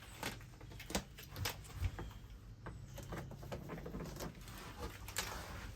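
Scattered light taps and rustling as small adhesive strips are handled and pressed onto a truck bed's sidewall.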